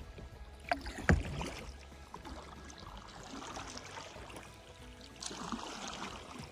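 Kayak paddling on a river: paddle blades dipping and splashing, with two sharp knocks about a second in, the second one loud.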